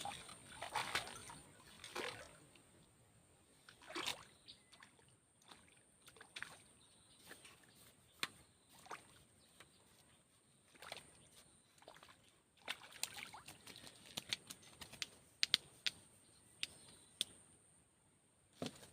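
Scattered small clicks and knocks with light water splashes, sparse at first and coming thicker near the end.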